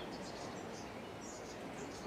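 Small birds chirping: short high-pitched calls repeating several times a second over a steady background hiss.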